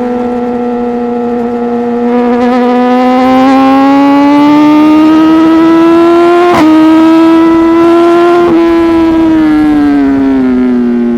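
Inline-four superbike engine running loud through an aftermarket exhaust at highway speed. The note climbs slowly for several seconds, holds, then falls away near the end, with a brief crack about two-thirds of the way through.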